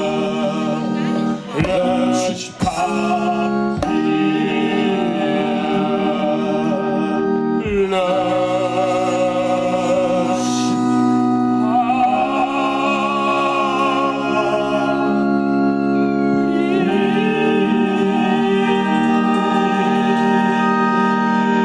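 Live band music led by an electric keyboard on an organ sound: sustained chords that change about every four seconds, with a wavering melody line above them.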